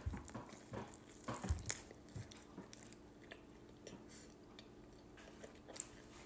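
A bite into a soft, gravy-covered sandwich, then quiet chewing with small wet clicks, louder in the first two seconds and fainter after.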